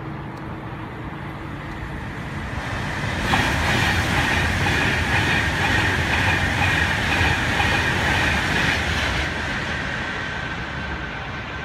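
A train passing through the station at speed. Its rushing rail noise swells suddenly about three seconds in, holds for several seconds, then dies away.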